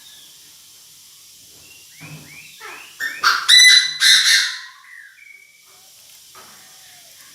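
Chinese francolin calling: a run of short falling notes about two seconds in, then a loud, harsh burst of calls lasting about a second and a half.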